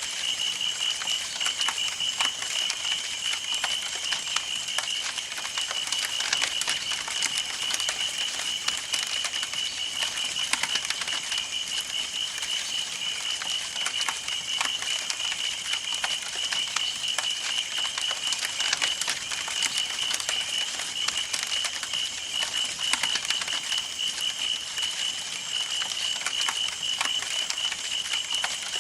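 Campfire burning, with dense irregular crackling and pops of burning wood. Underneath runs a steady high pulsing trill.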